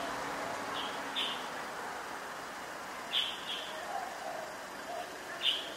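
Small birds chirping: a handful of short, high calls spaced irregularly over a steady hiss of outdoor street ambience.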